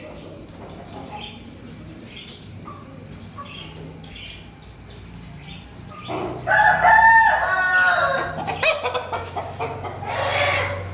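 Aseel rooster crowing: one long crow starting about six seconds in and lasting nearly three seconds, followed by a shorter call near the end. Faint short clucks and chirps come before the crow.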